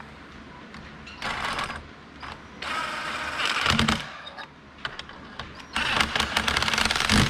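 A ratchet tightening the bolts of an EGR block-off plate on an intake manifold, in three bursts of rapid clicking with a few low knocks.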